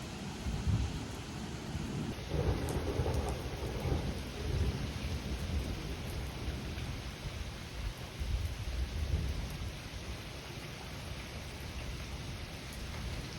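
Heavy rain pouring down steadily, with a long roll of thunder rumbling through most of the stretch, strongest in the first few seconds, then dying away.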